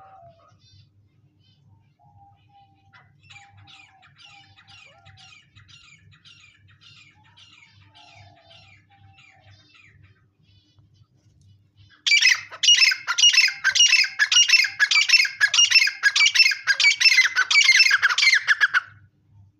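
Grey francolin calling: faint repeated calls at first, then about twelve seconds in a loud, fast run of harsh calls, about three a second, for some seven seconds before it stops abruptly. A faint low hum runs underneath.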